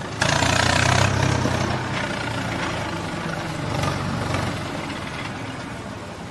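A heavy vehicle's engine running with a low steady hum, jumping louder a moment in and then slowly fading.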